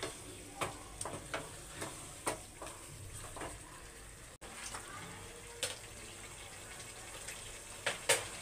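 Chicken and yogurt gravy sizzling in a coated kadhai over a high gas flame, with a wooden spatula scraping and tapping against the pan about twice a second for the first three seconds or so, then a single tap and a couple more near the end.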